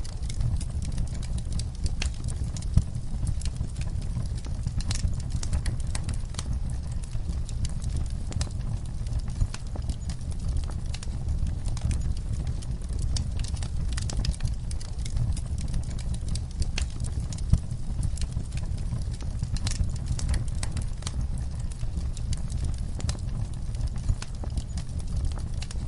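Campfire crackling: irregular sharp pops and snaps over a steady low rumble of burning, with a few louder pops standing out.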